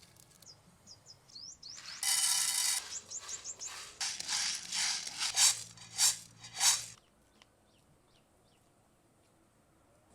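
Small birds chirping in short high chirps. About two seconds in there is a louder, layered call, and between about four and seven seconds a run of loud, harsh rasping calls.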